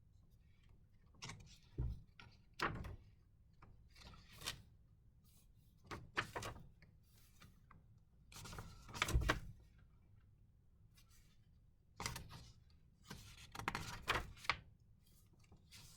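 Paper pages of a journal being turned and handled: a series of short, soft rustles and swishes at uneven intervals, the longest and loudest about nine seconds in.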